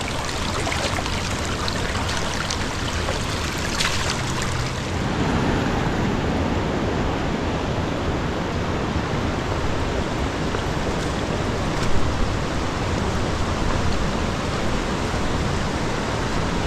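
The Linville River flowing, a steady rush of moving water, with a brief knock about twelve seconds in.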